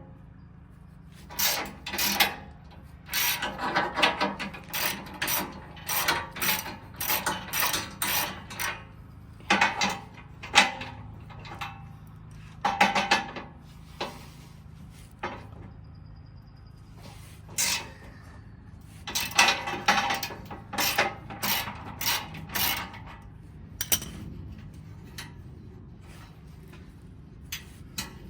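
15 mm hand ratchet clicking in runs of quick strokes as it backs out the skid plate bolts, with short pauses between runs, over a steady low hum.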